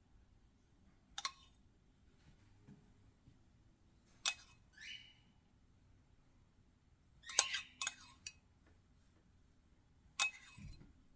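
A few scattered clinks of a kitchen utensil against a glass dish, with a short scrape about five seconds in and a quick run of clinks near the middle.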